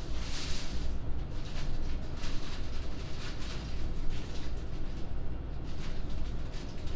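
A man eating a toasted meatball sandwich: chewing, with irregular short crackles of the toast, over a steady low rumble.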